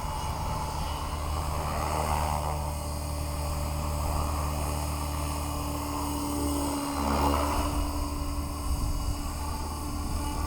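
Align T-Rex 550X electric R/C helicopter running: a steady hum from its rotor and motor, with a brief change in pitch about seven seconds in.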